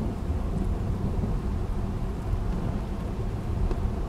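Steady low rumble of a car driving, heard from inside the cabin: engine and road noise with no changes or separate events.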